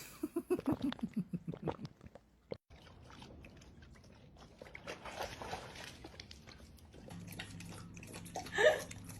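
A dog lapping water with its tongue, in small wet clicks.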